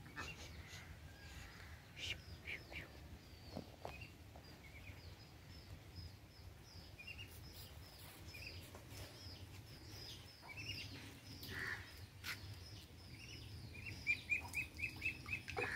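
Faint, short, high bird chirps repeating over a low steady outdoor hum, with a quick run of about six chirps near the end.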